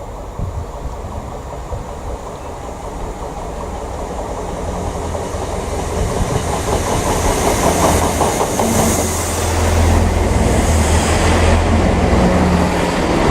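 Train approaching and passing close, growing steadily louder, with wheels clattering over the rails and a low engine hum building near the end.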